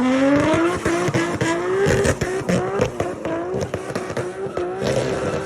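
Turbocharged Nissan Skyline RB26 straight-six accelerating hard. Its note rises over the first two seconds and then holds high, with many sharp crackles throughout.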